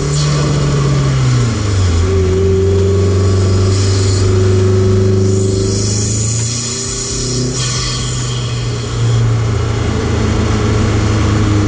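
Honda Civic Si's turbocharged 1.5-litre four-cylinder pulling under load, heard at the cold air intake filter: a steady engine note that drops in pitch about a second and a half in, with loud turbo whooshes around four seconds in and again from about five and a half to seven and a half seconds in.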